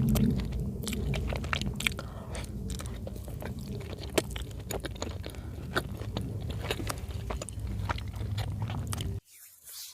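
Close-miked chewing of chicken in cream sauce: many small wet clicks and crackles over a low rumble, cutting off suddenly near the end.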